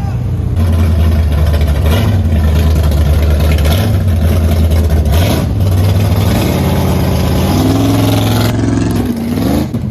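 Loud truck engine rumbling low and steady as it drives past, then climbing in pitch as it accelerates near the end.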